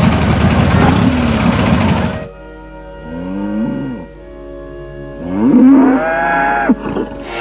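Motorcycle engines revving over background music. One loud burst of engine noise dies away about two seconds in. Later come two revs that climb, hold and drop, the second louder.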